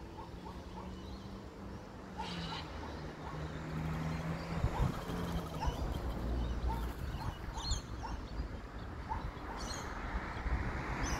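Short bird chirps repeated irregularly, with a few higher calls, over the low hum of a motor vehicle that grows louder toward the end.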